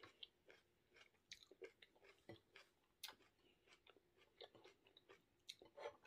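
Faint chewing of a mouthful of rice and water spinach, with scattered soft clicks and smacks throughout.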